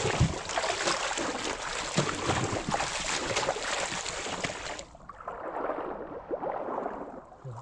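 Flowing river water with many small splashes and knocks. About five seconds in the sound turns muffled and quieter, the bright hiss dropping away.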